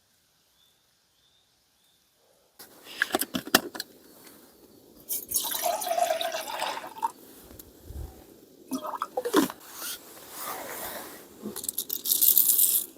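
After a moment of near silence, liquid pouring and splashing in short bursts, mixed with irregular clicks and knocks of things being handled.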